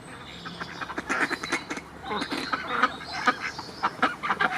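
Ducks quacking, many short calls in quick succession that grow busier after about a second.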